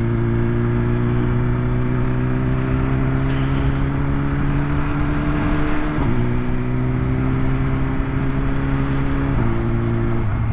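2020 BMW S1000RR's inline-four engine on the stock exhaust, pulling steadily under way with a slowly rising note that breaks briefly about six seconds in and again near the end, under a constant rush of wind on the helmet microphone.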